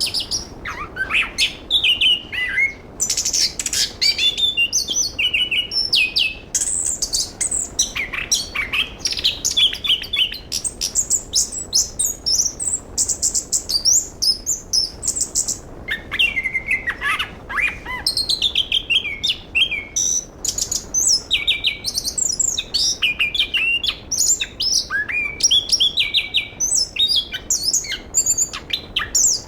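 A chestnut-capped thrush (anis kembang) sings a fast, nearly unbroken string of varied high chirps, whistled slurs and trills.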